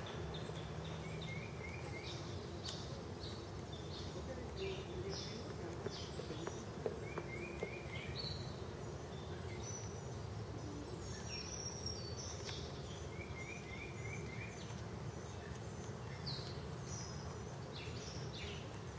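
Songbirds calling over a steady low outdoor hum. One bird repeats a quick four-note chirp about every six seconds, among other short whistles and chirps.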